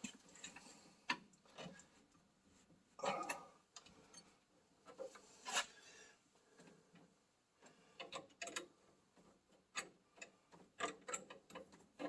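Faint, irregular metallic clicks and scraping of a hand wrench working on an oil burner's nozzle fitting, with small clusters of quick clicks about eight seconds in and near the end.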